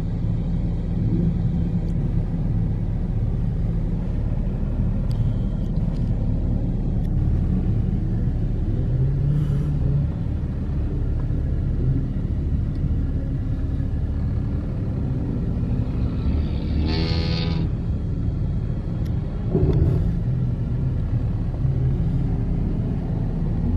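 Car engine and road noise, a steady low drone, with a brief rising pitched sound about seventeen seconds in.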